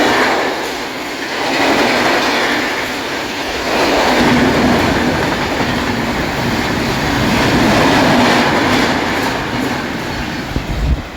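Express train passing at speed: the steady rush and rattle of coach wheels on the rail, swelling and easing in waves, then falling away just before the end.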